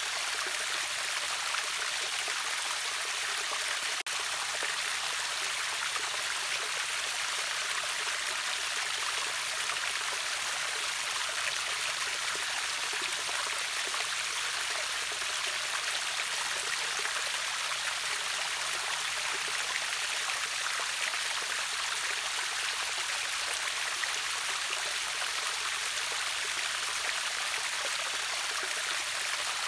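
Water from a small river waterfall splashing and rushing in an even, steady hiss, bright and without pauses.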